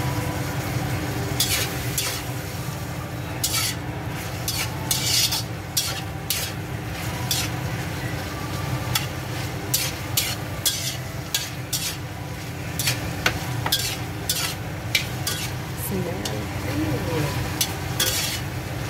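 Shrimp and tomatoes sizzling in hot oil in a pan while being stirred, with frequent short, irregular scrapes and clicks of the utensil against the pan.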